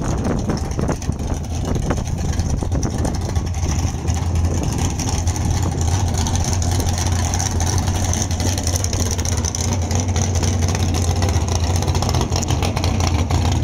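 Mitsubishi Lancer Ralliart's turbocharged four-cylinder engine idling as the car creeps up to the drag strip start line, a steady low drone with no revving. A steady high hiss runs over it.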